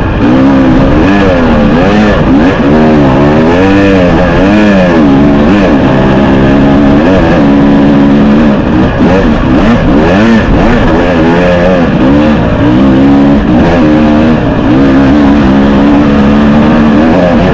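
Husqvarna 300TX two-stroke single-cylinder dirt bike engine being ridden, revving up and down repeatedly, its pitch rising and falling every second or two.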